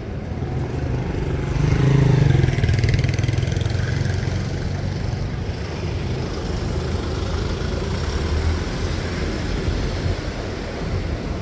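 A motor vehicle's engine passing close by on a city street, loudest about two seconds in, over a steady hum of traffic.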